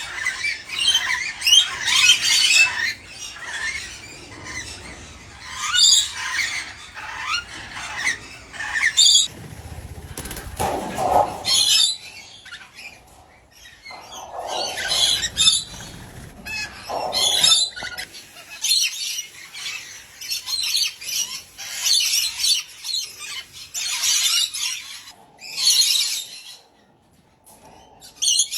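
Pet birds calling and squawking in short, irregular bursts of high-pitched calls, with a few lower calls in the middle.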